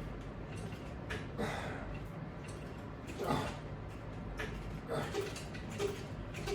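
Faint breathing and movement noises from a man doing a resistance-band hamstring and hip exercise, with a few soft puffs about a second apart over a steady low background.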